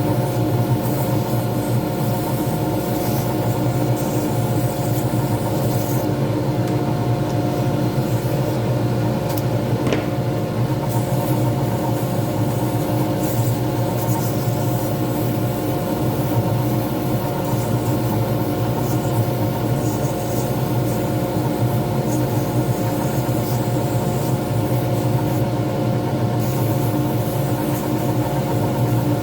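Pen lathe motor running steadily with a constant hum of several tones, spinning a resin pen blank. There is a faint click about ten seconds in.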